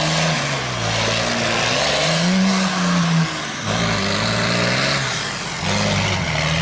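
Off-road race rig's engine revving hard, its pitch climbing and dropping again and again as the driver works the throttle.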